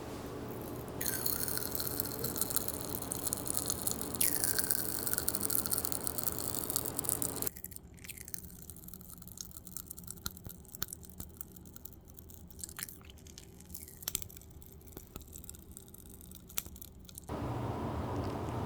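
Water running in a steady hissing stream, starting up twice in the first few seconds. It is followed by a quieter stretch of scattered small clicks and knocks of kitchen handling.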